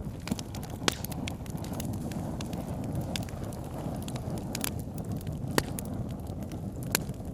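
Campfire crackling, with sharp wood pops every second or so over a steady low rushing noise.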